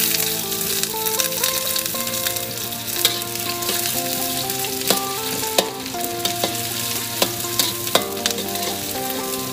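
Sliced onions sizzling in hot oil in a wok while a spatula stirs them, with a sharp scrape or knock of the spatula against the pan several times.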